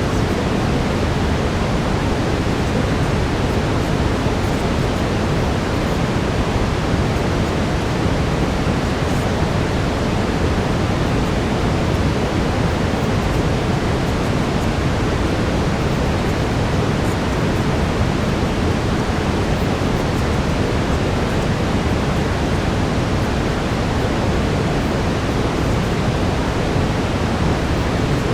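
Steady brown noise, a deep even hiss weighted toward the low end, with no change in level.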